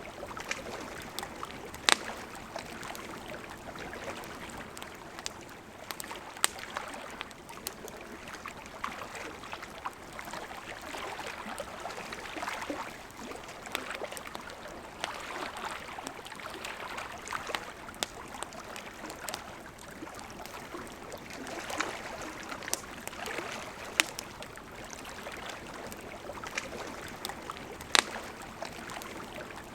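A river running steadily, with a campfire crackling over it: scattered sharp pops, the loudest about two seconds in and twice near the end.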